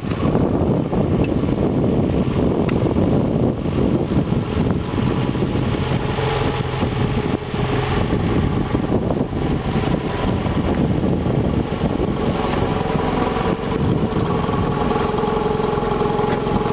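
Antique tractor engine running steadily under load while ploughing. A steadier humming tone comes up from about halfway through and grows toward the end.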